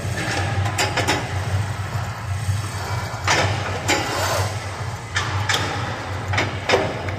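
Gym ambience: a steady low hum with scattered clicks, knocks and clanks, a few of them sharper around the middle and near the end.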